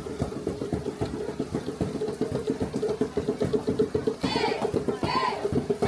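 An engine idling with a steady, rapidly pulsing hum. Two short high-pitched vocal sounds come over it near the end.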